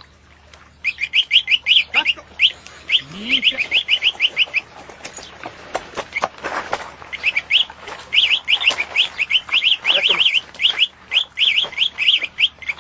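A songbird singing in quick runs of high, repeated chirps. The runs break off for about two seconds around the middle, where there is some rustling, and then start again.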